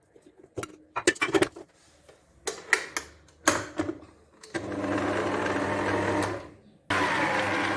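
A few sharp knocks and clicks, then an electric hand mixer starts beating eggs about four and a half seconds in with a steady motor whir; it stops briefly near the end and starts again.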